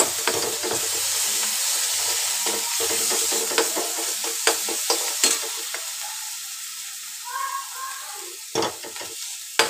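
Onion and ginger-garlic paste sizzling in hot oil in an iron kadhai, with a metal ladle scraping and clicking against the pan as it is stirred. The sizzle dies down in the second half.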